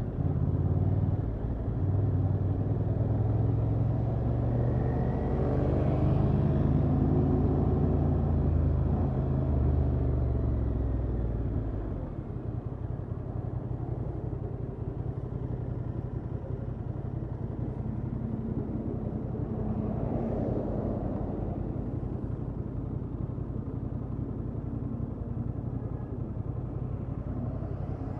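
Honda XL750 Transalp's parallel-twin engine through its stock exhaust, pulling under load with the pitch rising for the first twelve seconds or so. It then drops to a quieter, steady low note, with a brief swell about twenty seconds in.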